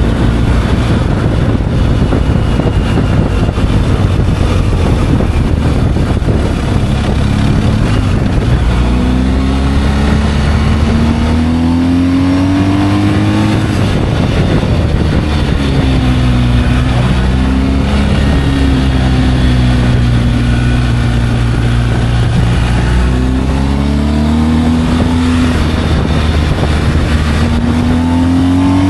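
Motorcycle engine under way, its pitch climbing as it accelerates and dropping sharply at each gear change, about three times, with wind rushing over the microphone, heaviest in the first few seconds.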